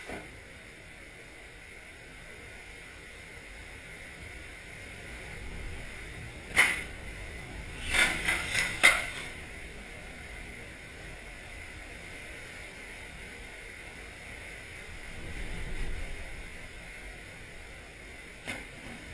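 Snow shovel scraping and knocking: one sharp stroke about a third of the way in, a quick run of four a second or so later, and a fainter one near the end. Under it the blizzard wind makes a steady hiss, swelling into a low rumble for a moment past the middle.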